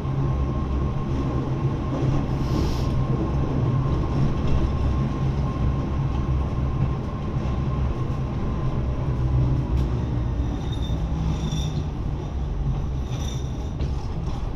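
Interior running sound of a Lausanne-Ouchy rack-railway (cog-rail) train going downhill: a steady low rumble with a thin whine that fades out about nine seconds in. Brief high squeals come about two seconds in and again near the end.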